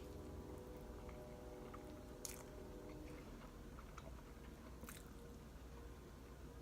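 A person quietly chewing a mouthful of spaghetti close to the microphone, with a few faint mouth clicks over a low room hum.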